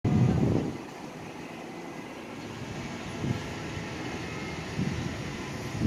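Steady outdoor rumble and hiss of a distant approaching Metro-North diesel passenger train mixed with city background noise. There is a short louder low rumble at the start and a couple of soft low thuds later.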